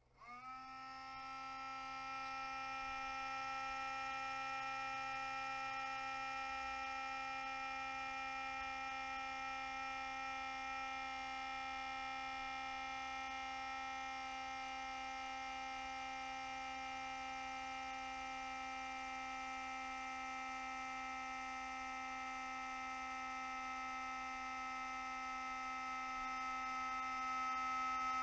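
Cooling fan in a Toshiba REGZA RD-R100 DVD recorder starting up: a humming whine with several tones that rises in pitch within the first second, then holds steady and grows a little louder near the end. The owner takes the noise for a failed cooling fan.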